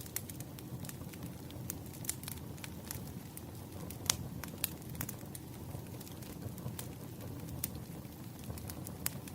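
Wood fire crackling: irregular sharp snaps and pops over a low steady rumble, with the loudest pop about four seconds in.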